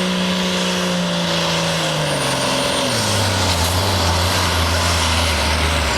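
Modified diesel farm tractor engine working hard under the weight of a pulling sled; about halfway through, its revs fall steeply and it runs on at a much lower, steady pitch. The engine is lugging down short of RPMs.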